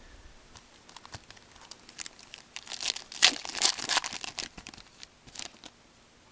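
Foil wrapper of a Panini Certified hockey card pack crinkling and tearing as it is opened by hand, a dense run of crackles that is loudest in the middle.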